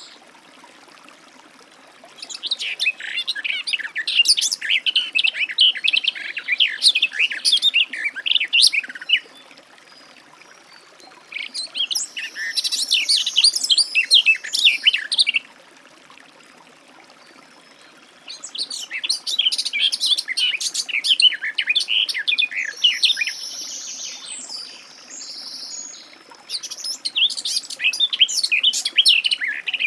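Garden warbler singing: four long bouts of rapid, continuous warbling, each lasting several seconds, separated by short pauses.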